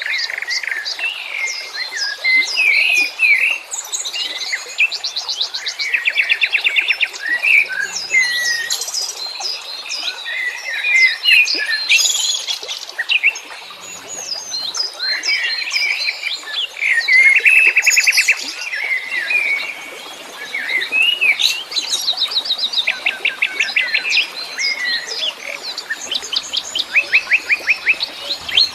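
A chorus of several wild songbirds calling at once: overlapping chirps, whistled notes and fast buzzy trills repeated again and again.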